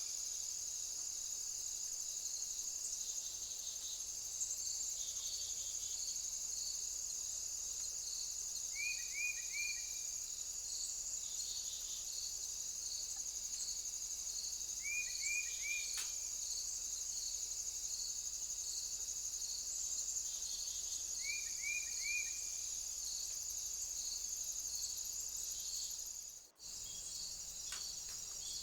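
Steady high-pitched chorus of insects shrilling, with a faster regular chirping beneath it. A quick call of three short falling notes repeats about every six seconds. The sound cuts out for an instant near the end.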